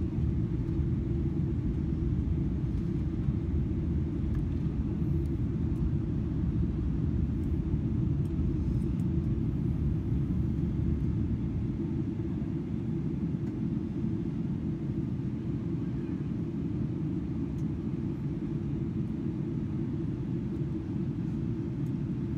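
Steady low cabin rumble of a Boeing 777-300ER airliner on approach, heard from a passenger seat: engine and airflow noise. It eases slightly in the second half.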